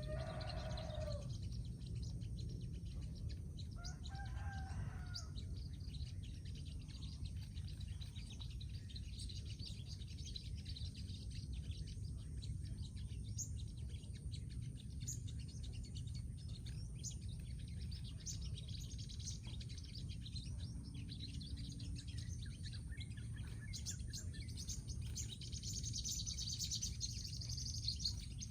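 Sunbirds chirping in quick short notes, busier near the end, with a rooster crowing in the background right at the start and again about four seconds in, over a steady low rumble.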